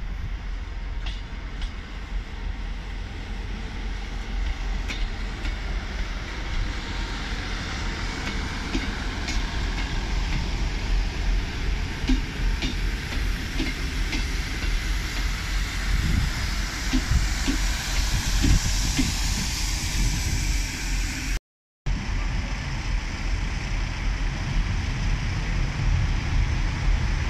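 Diesel multiple-unit trains at a station platform: one runs past close by, its wheels clacking over the rail joints and a hiss swelling as it goes by. After a short break, a GWR Class 166 diesel unit rolls in alongside the platform, with a low wind rumble on the microphone throughout.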